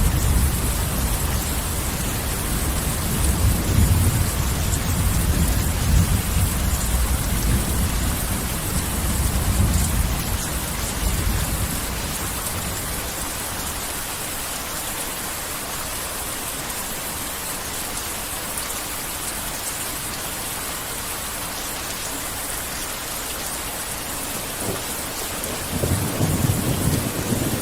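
Heavy rain falling steadily, with a low thunder rumble that dies away over the first dozen seconds. Another roll of thunder builds near the end.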